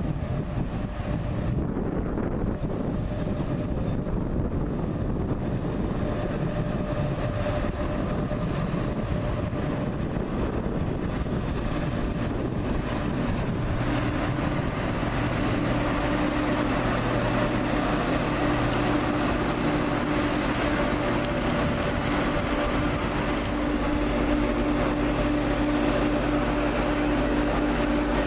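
Train running at a station: a steady low rumble, with a droning engine-like tone coming in about halfway through.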